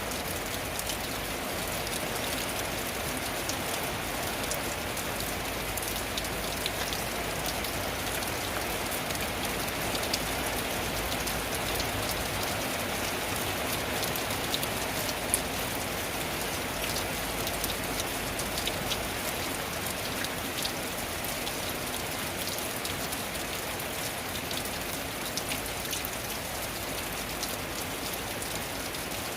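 Steady rain falling on a tin roof, a dense even patter with many individual drops ticking sharply on the metal.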